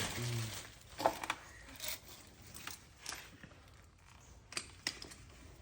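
Faint, scattered clicks and clinks of hand tools and small objects being handled, a single knock every second or so.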